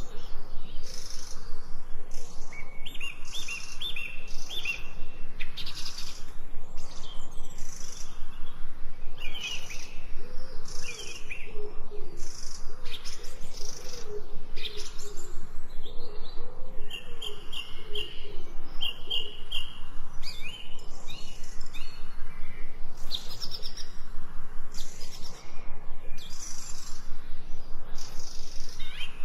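Several wild birds chirping and calling over one another in quick succession, with rapid repeated trills and, through the middle, a lower wavering call.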